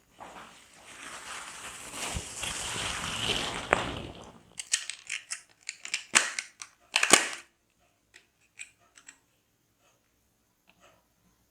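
Handling noises: a rustle for about four seconds, then a run of sharp clicks and knocks that thins out to a few faint ticks.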